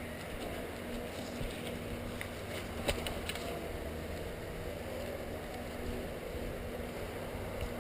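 Steady rushing of rain-swollen river and floodwater, with a few short clicks or footsteps about three seconds in.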